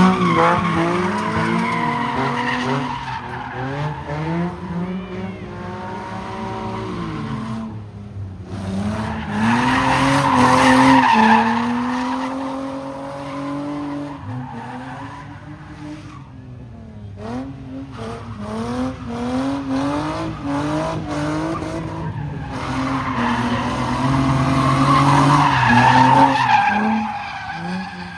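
A car spinning in a car pit, its engine revving up and down while its tyres squeal. It swells loudest three times: at the start, around ten seconds in, and near the end.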